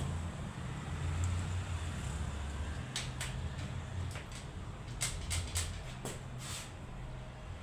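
Honda Pop 100's small single-cylinder four-stroke engine idling steadily, running without the earlier engine noise now that a new stator part is fitted. Several sharp clicks come in the second half.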